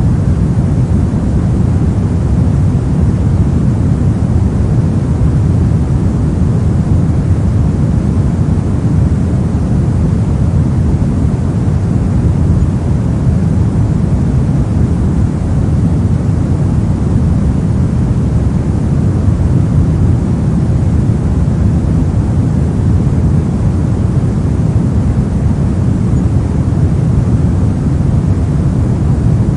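Steady pink noise: an even, unbroken rushing hiss, weighted toward the deep end, that does not change.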